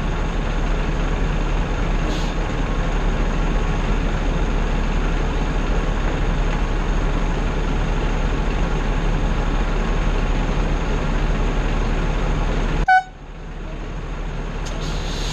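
Vehicle engine idling steadily with a low hum. Near the end a short beep sounds and the noise drops away suddenly, then slowly builds back up.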